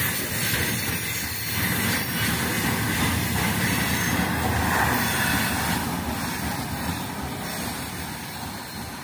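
Container freight train's flatcars rolling past on the rails, a steady noise of wheels on track. It fades in the last few seconds as the end of the train draws away.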